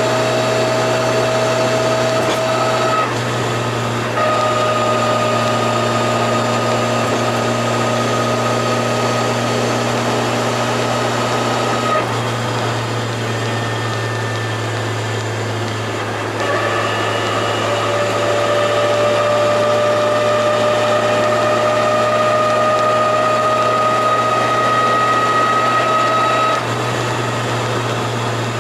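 Turbocharged Toyota AE86 under way, its engine running steadily with a clear whine. The whine's pitch climbs slowly and drops back a few times, with small dips in loudness at those points.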